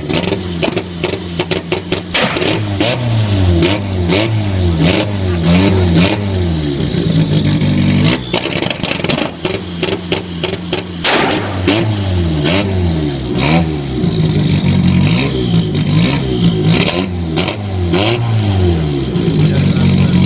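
Turbocharged four-cylinder Renault 5 engine revving hard again and again, its pitch climbing and dropping, with many sharp bangs from the exhaust between the revs.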